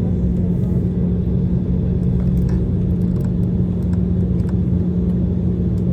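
Steady low rumble of a jet airliner's cabin, from engine noise and airflow, with a strong even hum underneath and no change throughout.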